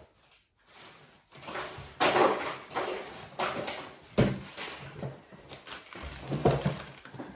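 Crisp packet crinkling and rustling in bursts as crisps are shaken out of it.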